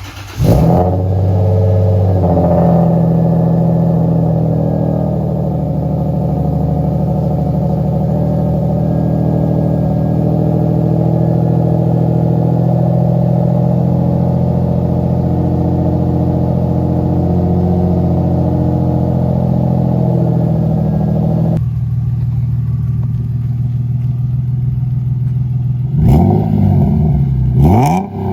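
Lexus IS300's 2JZ-GE inline-six cold-starting through an aftermarket exhaust with OBX headers, catching at once and running at a steady idle. About 21 seconds in the sound suddenly turns duller, and near the end the engine is revved twice, each rev rising and falling.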